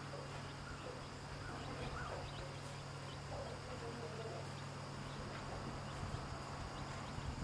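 Hen clucking softly with chicks peeping in short high calls, over a low steady hum.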